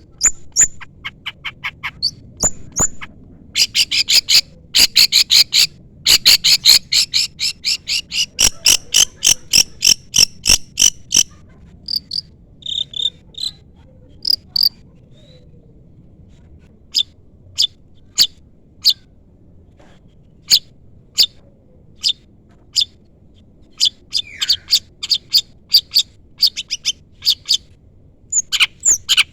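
Long-tailed shrike (cendet) singing: rapid runs of sharp, high chirps and chattering trills in dense stretches of several seconds, broken by single sharp notes. These are challenge calls that invite a rival shrike to answer.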